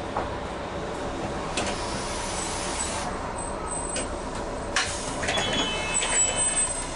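Interior noise of a Toyohashi Railway streetcar: a steady rumble broken by several sharp clicks and knocks, with a short high ringing tone about five seconds in.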